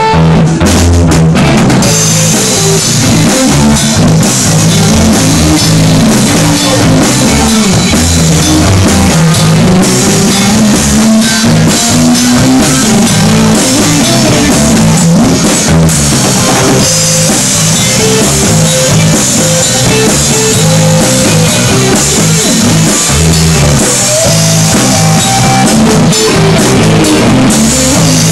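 Live instrumental jam by an electric guitar, bass guitar and drum kit trio, with the bass moving under busy drums and cymbals in a loud, distorted room recording.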